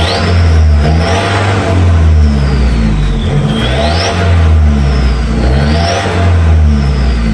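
Ford Ranger T9's engine revved repeatedly through an HKS full exhaust system with its downpipe fitted: the engine note rises and falls about three times, with a high whistle climbing on each rise.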